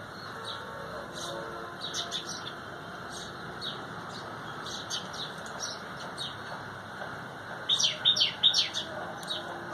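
Small birds chirping in short, high, repeated notes, with a louder burst of rapid chirps near the end, over a steady background hum.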